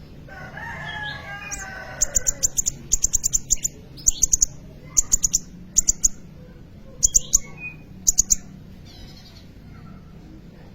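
Kolibri ninja sunbird singing in fast clusters of very high, sharp chirps, several notes per burst, repeated every second or so. A lower warbling bird call comes before them, over a steady low hum.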